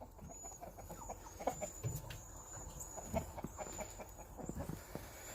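Chickens clucking softly, a scatter of short, faint clucks.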